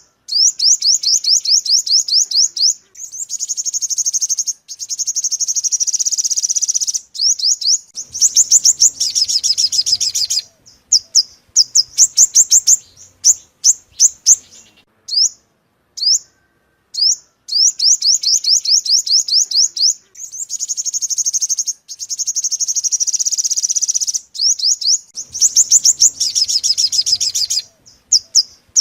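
Sunbird song played as a lure call: fast runs of high, rapidly repeated chirps alternating with buzzy trills and short pauses. The same sequence repeats about every 16 seconds, as a looped recording.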